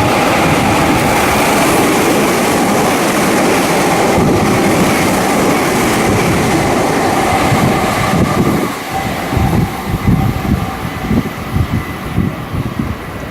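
Meitetsu 2000 series μSKY airport express passing through a station at speed without stopping: a loud steady rush of wheels on rail with faint steady whine tones. After about eight seconds it gives way to irregular gusts of wind on the microphone in the train's wake.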